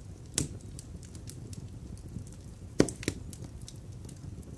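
Wood fire in a fireplace crackling: a low steady rumble with scattered small ticks and a few sharp pops, the loudest about three seconds in.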